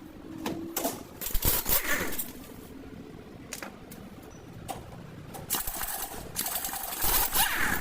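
Metallic clicking and clanking, as of hand tools working on metal parts. There are louder clusters of knocks with brief ringing about a second and a half in and again near the end, and scattered lighter clicks between them.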